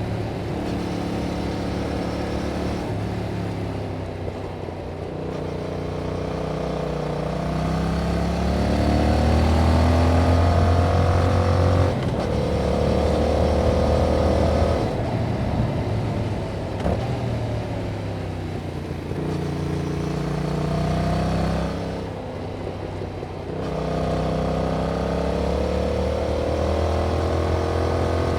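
Yamaha MT-07's 689 cc parallel-twin engine through its stock exhaust, under way: the revs climb in four long pulls, each dropping back sharply at a gear change or easing off.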